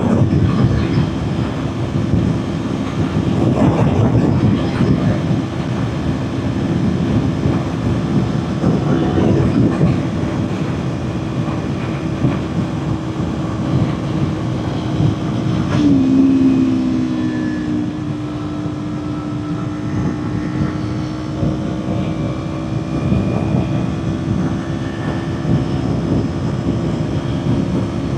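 Kawasaki Ninja 400 parallel-twin engine running flat out at a steady high rpm, a constant drone under heavy wind rush on the microphone. About halfway through, a second, lower note briefly joins and dips in pitch.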